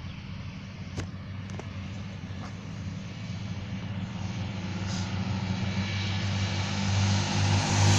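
Turboprop aircraft engines running with a steady low propeller hum and a rushing hiss that grows steadily louder.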